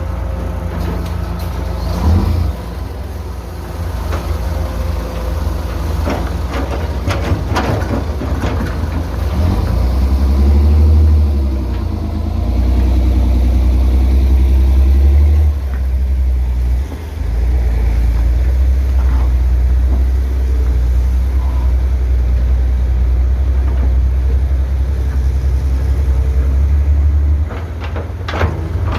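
Heavy construction machine's diesel engine running with a deep, steady rumble, revving up about ten seconds in and running harder under load, with a short dip a little past halfway. Sharp knocks come a couple of times early on and again near the end.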